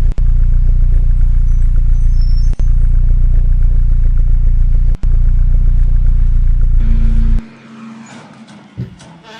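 Loud, steady low engine drone, like a truck idling, cutting out briefly about every two and a half seconds and stopping abruptly near the end, leaving quieter clattering.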